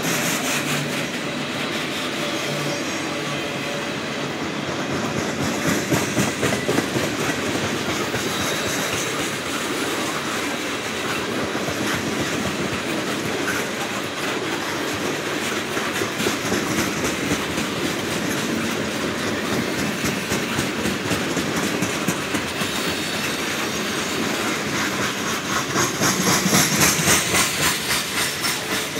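Freight cars of a long train rolling past close by, autoracks and then tank cars: a steady rumble of steel wheels on rail with rhythmic clickety-clack over the rail joints. It grows louder twice, about six seconds in and again near the end.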